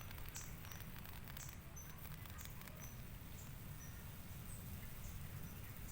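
Faint fizzing and crackling from a flameless ration heater reacting with water inside its sealed bag, bringing the water to a boil. Short high chirps repeat about once a second over a low rumble.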